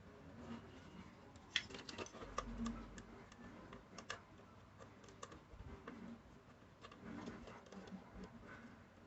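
Faint, irregular light clicks and taps, scattered unevenly with a cluster about two seconds in.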